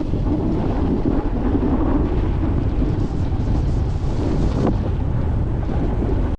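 Strong blizzard wind buffeting the camera's microphone: a loud, steady rumbling rush with no pauses.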